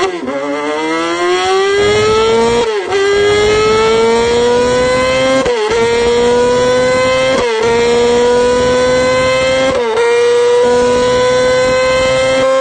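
Sport motorcycle engine accelerating hard through the gears, its pitch climbing steadily and dipping briefly at each of about four upshifts.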